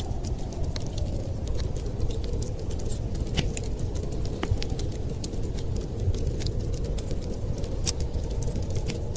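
Wood fire crackling: many small sharp pops and snaps at irregular intervals over a steady low rumble.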